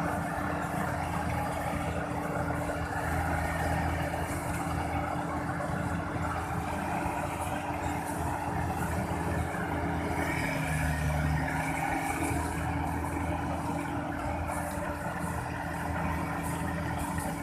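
Kubota DC35 combine harvester's diesel engine running steadily as it works, with a brief deeper, stronger tone about ten seconds in.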